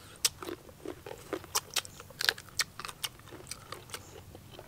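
Crunchy chewing and biting of raw green mango slices, close to the microphone: irregular sharp crunches and mouth clicks, several a second.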